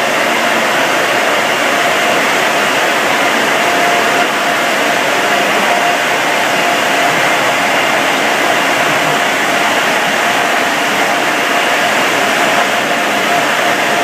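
Automatic car wash air-dryer blowers running with a loud, steady rushing of air and a faint steady whine through it.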